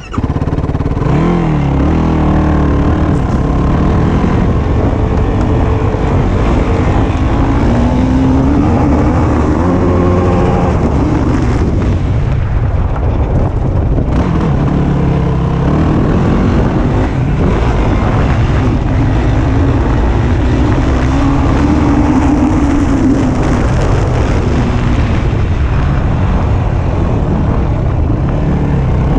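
Yamaha YFZ450 quad's single-cylinder four-stroke engine, heard close from on board, revving hard with its pitch climbing and dropping again and again as the rider accelerates and backs off around a motocross track.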